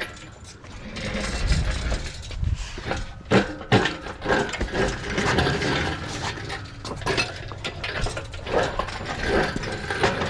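Irregular metallic rattling and clicking with a low rumble, from the engine hoist and its chain as the pulled 305 V8 is moved and worked.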